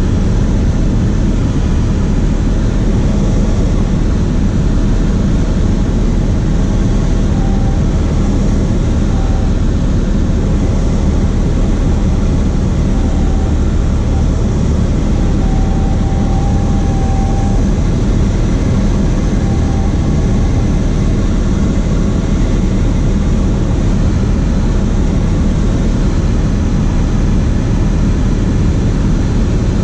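Cessna 152's four-cylinder Lycoming piston engine and propeller running steadily at a constant power setting. A faint high tone comes and goes a few times in the middle.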